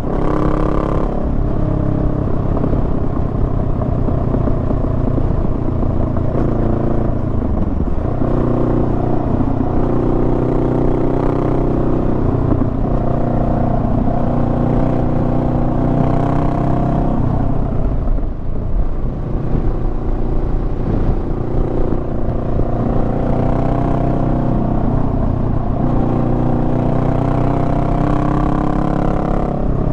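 Honda Rebel 500's parallel-twin engine running under way, its pitch rising and falling with the throttle. The note sags about eight seconds in and briefly drops in loudness a little past the middle.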